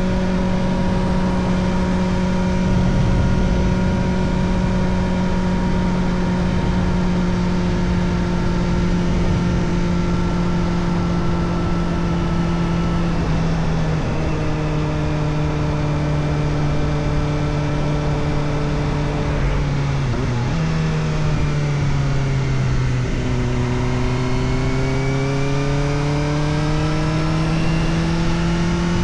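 Kawasaki Ninja ZX-4RR's 399 cc inline-four running through an Arrow Indy Race Evo titanium exhaust with the dB killer fitted, heard from on the bike. The engine note holds nearly steady, drops in pitch at a gear change about halfway, then rises steadily over the last few seconds as the bike accelerates.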